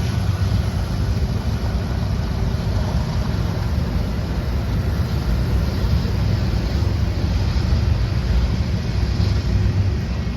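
Train going by with a steady, heavy low rumble and constant wheel and rail noise.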